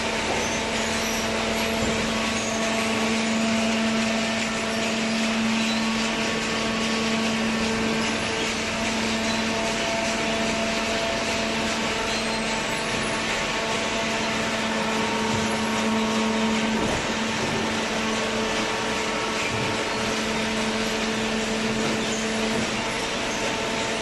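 Cardboard baling machinery running: a steady mechanical hum with several held tones over an even noise, and a brief knock about two-thirds of the way in.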